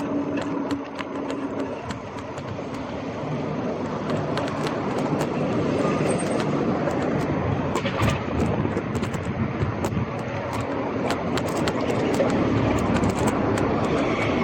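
Scott Scale Gravel 10 bike riding along a street: a steady tyre-and-road rumble with frequent sharp rattles and clicks, growing louder a few seconds in.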